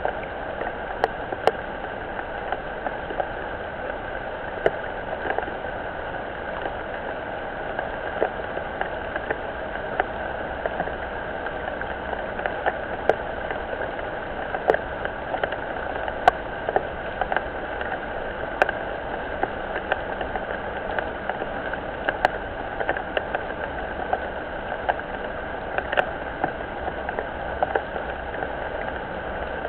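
Steady rain falling on a pond and the surfaces around it, with frequent sharp taps of single drops landing close by.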